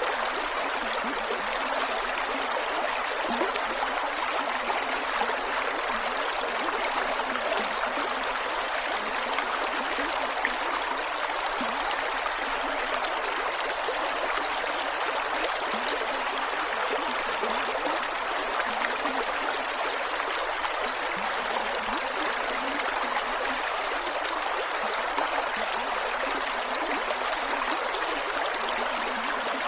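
Creek water flowing steadily over rocks, with a continuous rush and small gurgles and trickles.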